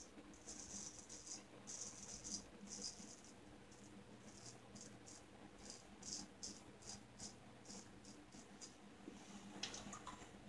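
Faint scraping of a shavette's blade cutting stubble, a series of short strokes that get quicker and shorter partway through, at about two or three a second.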